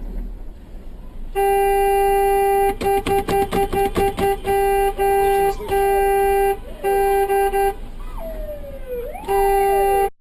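Car horn blaring: long held blasts, a run of rapid short taps about three seconds in, then more blasts. Squeals that slide down and up in pitch come over it near the end, and the sound cuts off suddenly.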